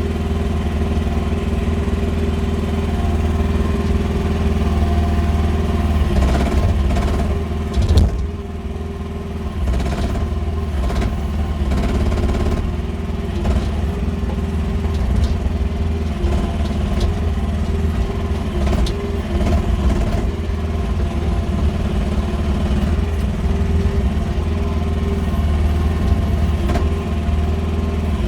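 QH13R mini excavator's engine running steadily under work, with scattered clunks and knocks. The loudest knock comes about eight seconds in.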